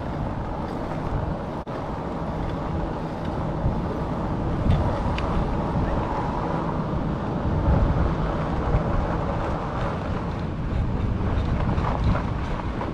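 Steady wind rush on the microphone and tyre noise from a fat-tire e-bike being ridden, with a brief dropout about two seconds in.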